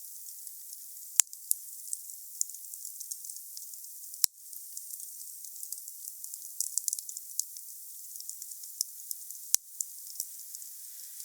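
Wood fire crackling with a steady hiss and many small snaps, and three sharp pops: about a second in, about four seconds in, and near the end.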